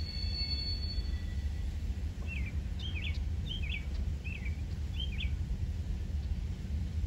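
Steady low rumble of a train running by, with a bird giving five quick chirps, each falling in pitch, in the middle. A thin high ringing tone fades out about a second in.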